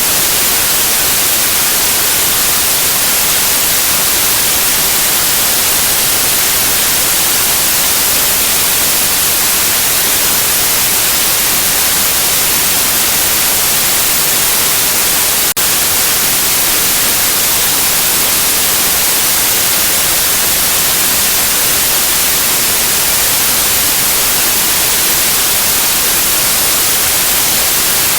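Steady, loud white noise, an even hiss strongest in the high end, used to soothe a colicky baby to sleep. There is one brief click about halfway through.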